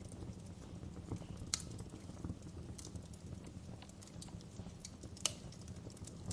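Wood fire burning in a fireplace: a steady low rumble of the flames with irregular sharp crackles and pops, the loudest pops about a second and a half in and again about five seconds in.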